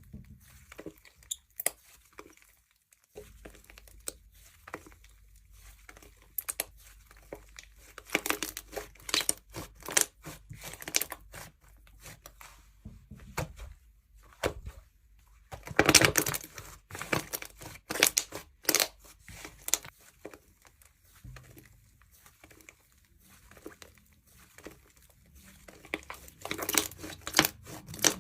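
Jewelry slime being squeezed and stretched by hand: sticky crackling and popping in bursts, densest about halfway through and again near the end.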